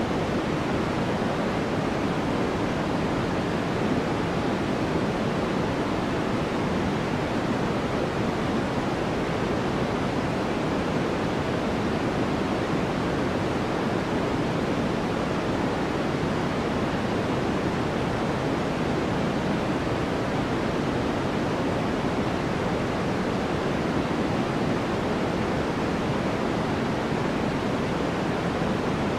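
Steady white-noise study track: an even, unbroken rushing hiss, fuller in the lows and mids than in the highs, with no changes or separate events.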